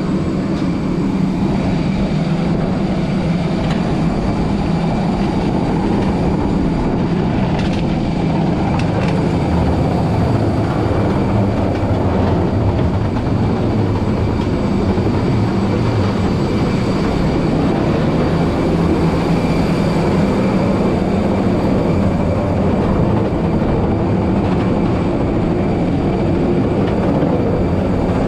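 Loud steady rumble of a parked jet airliner, with a thin, steady high whine on top.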